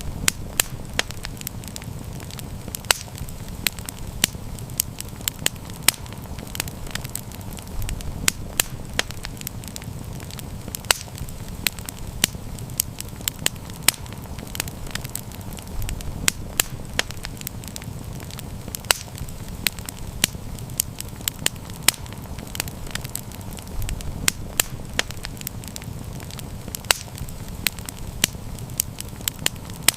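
Wood campfire crackling, with frequent irregular sharp pops over a low steady rumble.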